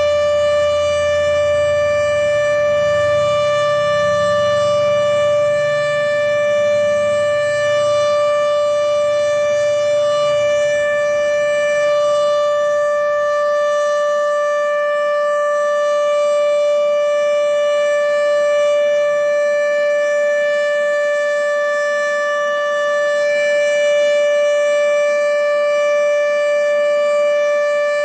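Outdoor civil-defense warning siren sounding for a tornado drill, holding one steady pitch with a ringing stack of overtones and no rise or fall.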